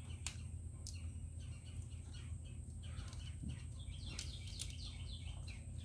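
Birds chirping, a run of short falling chirps repeated over and over, over a steady low hum, with a few light clicks as small plastic parts are handled.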